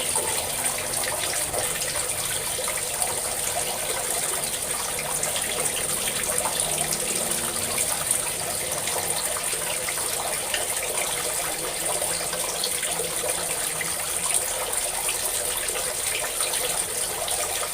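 Water pouring in a steady stream and splashing, an even, unbroken rush.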